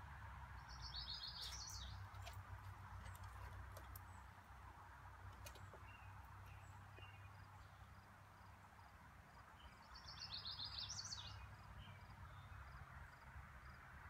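A songbird sings a short phrase of quick high notes twice, about a second in and again about ten seconds in, over a faint steady background hiss.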